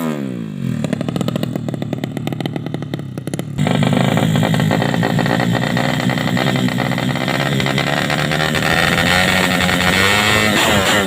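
A 130cc drag-bike engine on a tuning run. The revs fall off at the start and it runs low and lumpy for about three and a half seconds. It then jumps to a louder, steady higher speed held for about seven seconds, and the revs begin falling again near the end.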